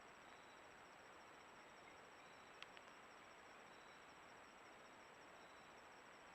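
Faint insects trilling in the woods: one rapid, evenly pulsed high trill throughout, with a second, lower call repeating about every second and a half, over a steady hiss. A single sharp click about two and a half seconds in.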